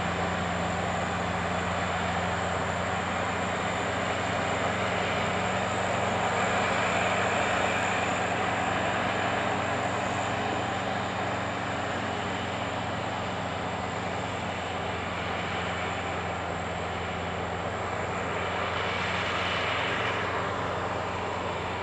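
Heavy diesel harvest machinery running steadily, an even engine hum under a rushing mechanical noise that swells briefly twice.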